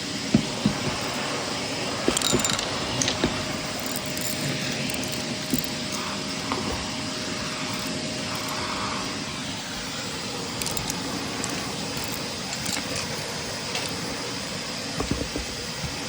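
Shark vacuum cleaner running steadily, with scattered sharp clicks and rattles of debris being sucked up, clustered near the start and near the end.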